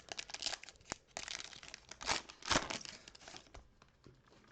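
A 2021 Donruss trading-card pack wrapper crinkling as it is torn open, with the loudest rips a little after two seconds in, then it settles down.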